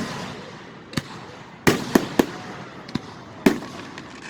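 Aerial fireworks shells bursting: a run of about seven sharp booms with echoing tails, three of them in quick succession near the middle.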